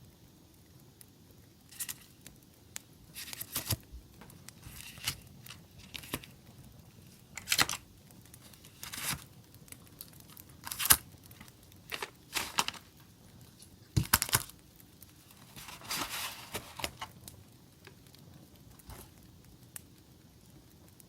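Paper and packaging being handled: a dozen or so short, irregular rustling and tearing sounds, the loudest about halfway through, over a faint steady campfire-crackle background.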